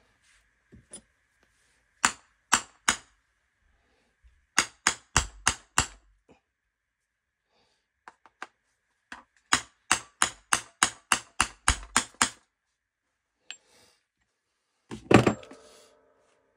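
Hammer strikes on metal in three runs of quick taps, about two to three a second, then one louder clang near the end that rings briefly.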